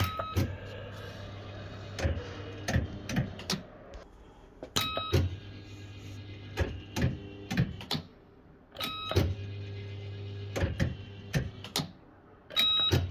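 A 1982 Bell-Fruit FireCracker fruit machine playing several games in a row. Each spin, about every four seconds, starts with a short burst of electronic beeps, then the reel motors hum steadily and the reels clunk and click to a stop.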